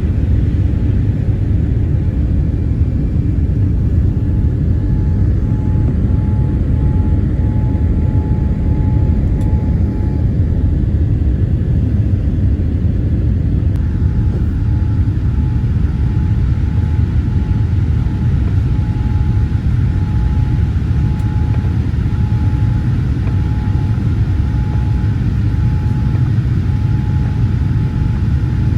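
Steady, loud, low rumble of a Boeing 787-8's jet engines and airflow heard inside the cabin, with a faint pulsing high tone in the background. About halfway through, the hiss grows brighter.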